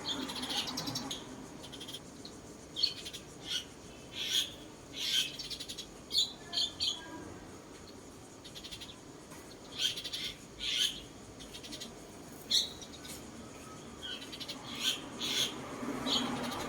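A bird singing: short, high chirps and brief phrases, coming in clusters every second or so, with a pause of a couple of seconds near the middle.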